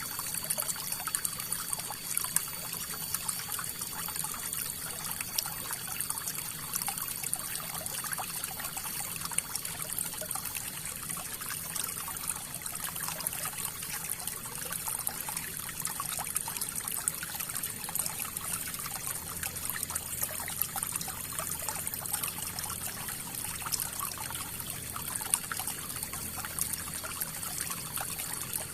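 River water flowing steadily: a continuous rush with many small splashes and a bright hiss.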